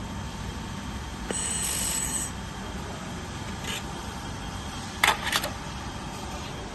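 Handheld fiber laser welder at work over a steady machine hum, with a brief high hiss of the weld about a second and a half in. Two sharp clicks, the loudest sounds, come close together near the end.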